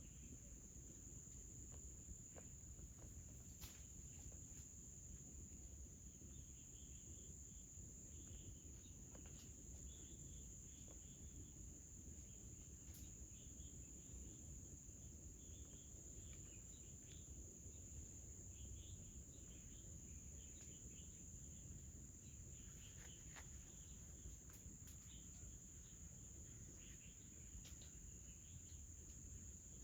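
Insects, crickets, chirring in a steady high-pitched drone, faint, with scattered softer chirps and a low background rumble.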